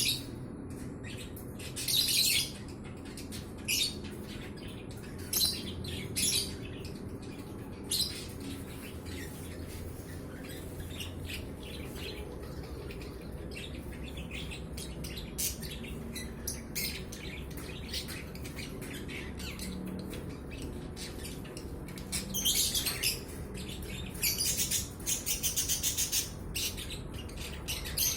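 A bird calling in short, sharp high-pitched chirps every second or two, then a quick run of repeated chirps near the end, over a steady low background rumble.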